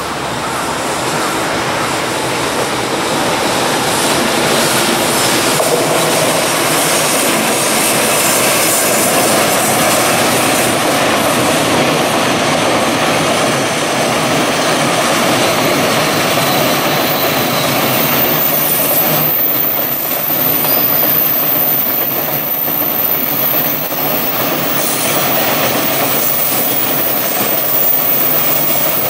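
Long JR Freight container train, hauled by an EF66 electric locomotive, rolling past steadily: the loud running noise of its container wagons on the rails.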